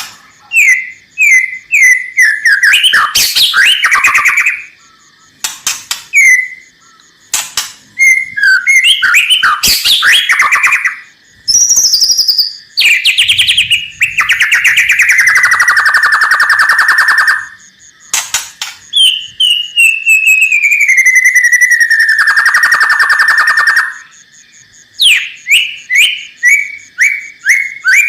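White-rumped shama (murai batu) singing loudly in varied phrases. It runs strings of short whistled notes, dense rattling bursts (the 'kretekan' crackle) and long buzzy notes that slide down in pitch. This is the rattling song that provokes rival shamas to answer.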